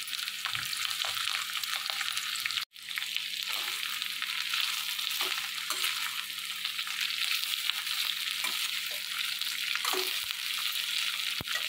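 Sliced bitter gourd sizzling steadily as it shallow-fries in mustard oil in a stainless steel kadhai, with a metal slotted spatula scraping and turning the slices now and then. The sizzle breaks off for an instant about three seconds in.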